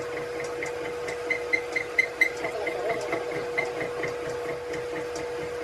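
A steady machine hum with a quick, even ticking over it, about four or five ticks a second, louder around the middle and fading out near the end.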